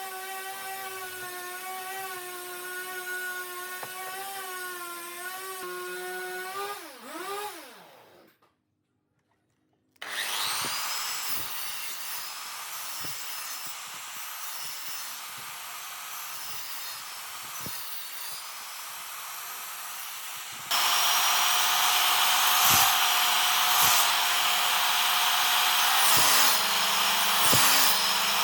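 Electric power tools working wood. A motor runs with a steady whine and then spins down about seven seconds in. After a short break, another tool cuts or sands wood with a noisy, rasping sound that gets louder about twenty-one seconds in.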